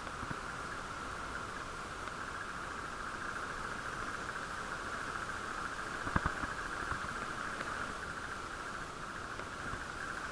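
Muffled, steady noise of a bicycle ride picked up through a camera's waterproof case, with a short cluster of knocks about six seconds in.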